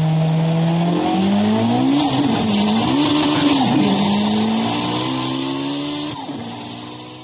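Sports car engine revving: a steady note that jumps up in pitch about a second in, wavers up and down, settles again, then fades out near the end.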